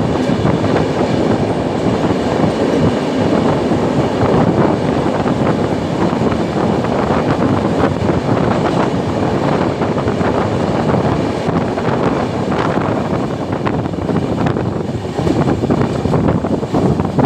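Indian Railways passenger train running on the rails, heard from aboard: a loud, steady rumble and rattle of the carriages with rapid clicking of the wheels over the track.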